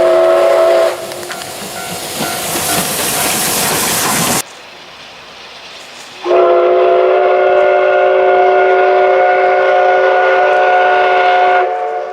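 Steam whistle of the SL Ginga's C58 steam locomotive: a chord of several steady notes ending about a second in, followed by a loud hiss of steam. After an abrupt cut to quieter train noise, a second long whistle sounds for about five seconds.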